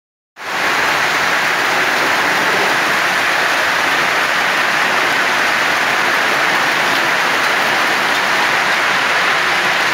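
Heavy summer rain: a steady, dense hiss of a downpour falling on the street and buildings, starting about half a second in.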